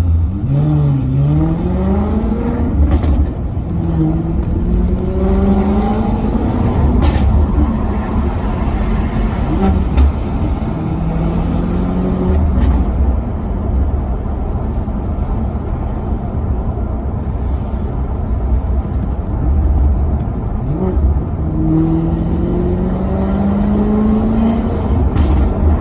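Maserati Quattroporte Sport GT's V8 engine, loud and deep, rising in pitch under throttle several times, each climb ending in a drop in pitch.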